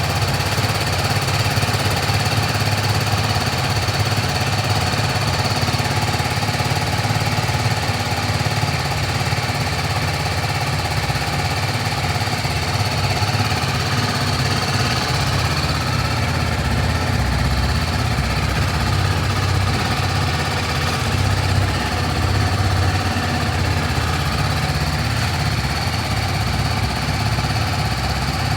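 BMW motorcycle engine idling steadily just after being started.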